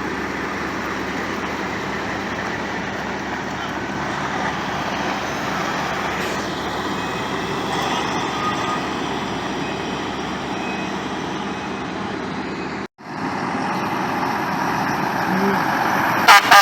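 Heavy trucks running, a steady noisy engine drone. The sound cuts out for a moment about two-thirds of the way through, then comes back slightly louder.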